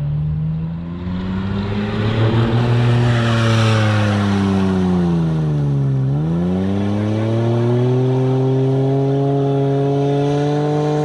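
Mitsubishi Pajero's 3.0 V6 engine revving hard under load while the tyres spin through deep mud. The engine pitch sags to a low point about six seconds in, then climbs again and holds high. A rushing noise is heard over the engine between about two and five seconds.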